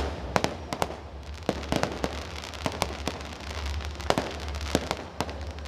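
Aerial fireworks bursting and crackling: an irregular series of sharp pops and bangs, several a second at times, over a steady low rumble.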